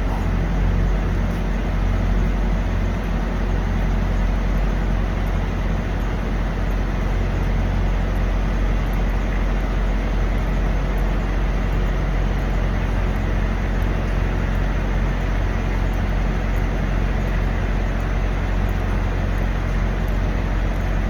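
Steady low hum of idling diesel truck engines, with an even hiss of traffic noise over it.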